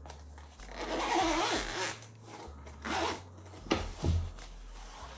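Zipper of a Sony WH-1000XM4 headphone carry case being pulled open: a long zip about a second in, a shorter one near the middle, then a couple of light knocks.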